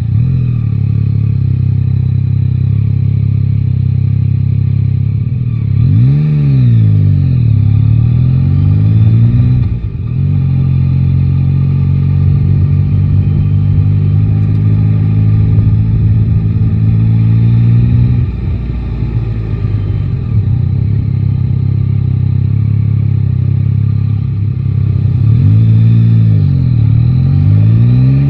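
Yamaha Tracer 9 GT's three-cylinder engine running in city traffic, mostly a steady hum, with its pitch swinging up and down as it is revved and eased off twice, near the start and near the end.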